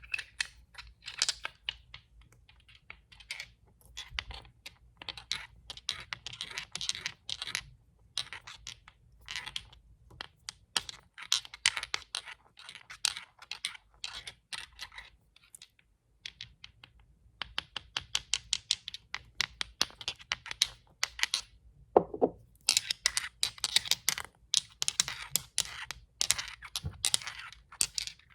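Fast tapping and scratching on glass nail polish bottles: dense runs of quick clicks broken by short pauses. About three-quarters of the way through comes one louder clink that rings briefly.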